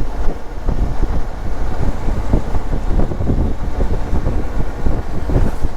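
Wind rushing and buffeting over the microphone of a moving adventure motorcycle, with the bike's running rumble underneath.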